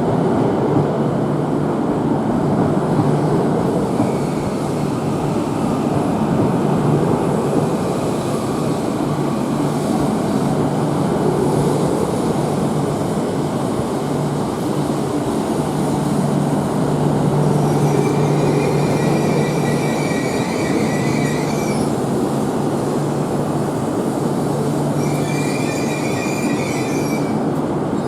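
Akita Shinkansen E6 series Komachi train running into the platform, a steady rail rumble with a high wheel or brake squeal twice in the second half.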